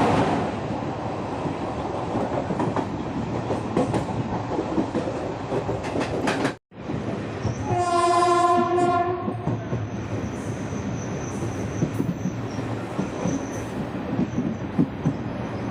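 Indian Railways express train running, with a steady rumble and rattle of the coaches. The sound cuts out briefly about six and a half seconds in. About a second later a train horn sounds once for roughly a second and a half.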